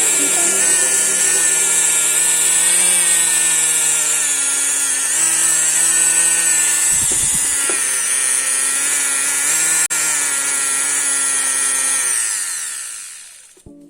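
Electric multifunction power tool running steadily at high speed, its motor pitch wavering slightly, with a low thump about halfway through. Near the end it is switched off and winds down, the pitch falling as it stops.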